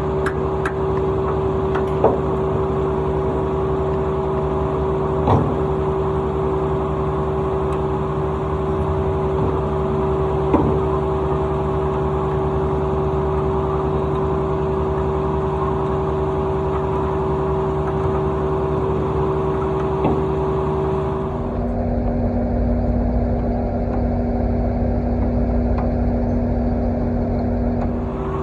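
Engine running at a steady speed, with a few short knocks in the first ten seconds. About three-quarters of the way through, the sound switches abruptly to a lower, rougher engine note.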